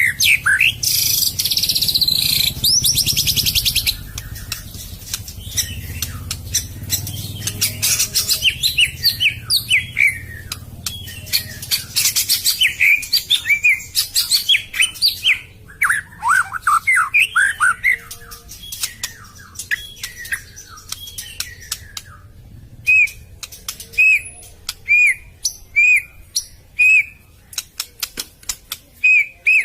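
White-rumped shama (murai batu) singing: a fast, varied run of whistles, trills and buzzy phrases, ending in a string of single clear whistled notes about one a second.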